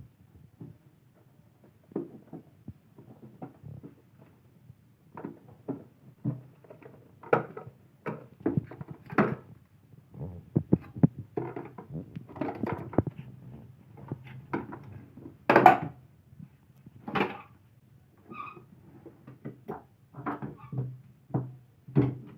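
Irregular knocks, clicks and rattles of a Eureka Forbes vacuum cleaner's housing and parts being handled as it is taken apart, the strikes coming in loose clusters with short pauses between.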